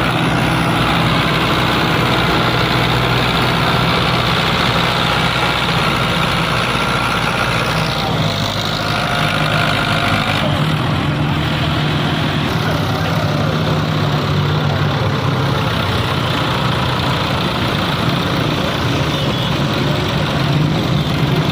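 Heavy tractor diesel engine running steadily, its note shifting about eight seconds in.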